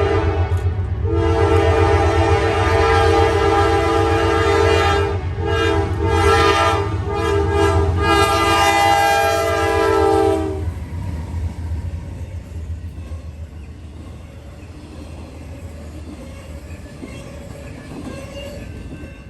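Freight locomotive's multi-chime air horn sounding in a series of blasts, the last one long, cutting off about ten seconds in. Under it the train runs by with a steady low rumble and some wheel clatter that carries on more quietly afterwards.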